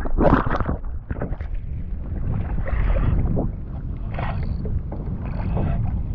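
Wind buffeting the microphone over water sloshing against a kayak hull, with a few brief rustling noises.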